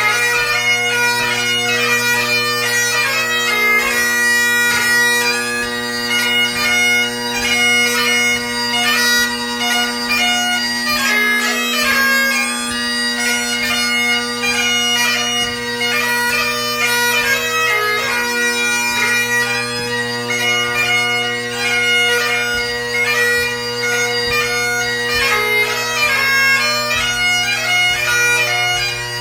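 Solo Great Highland bagpipe playing a light-music competition tune: steady drones sounding under a quick, changing chanter melody.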